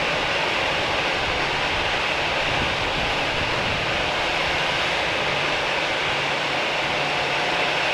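Jet airliner engines heard as a loud, steady rushing noise that holds level without rising or falling.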